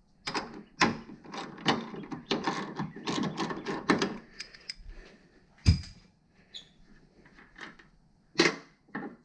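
Metal suspension parts and hand tools clinking and clattering as they are handled, a quick run of sharp clicks for the first few seconds. One loud single knock comes a little before six seconds in, then a few scattered clicks.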